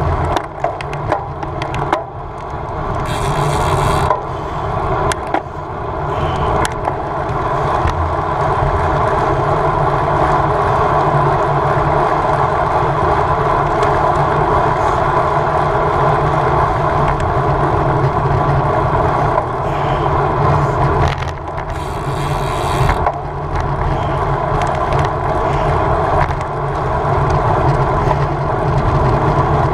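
Road bicycle ridden at race speed: a steady rush of wind over the microphone with tyre and road rumble, a few sharp clicks and knocks in the first seconds, and two brief spells of higher hiss, about three seconds in and again around twenty-two seconds.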